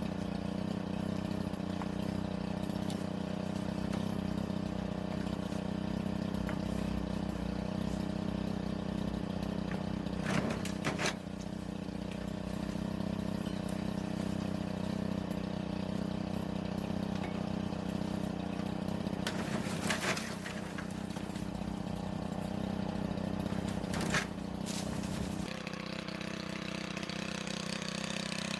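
Small two-stroke engine of a gas pole chainsaw running steadily near idle, with a few brief sharp snaps or clicks over it, and a slight change in the engine note near the end.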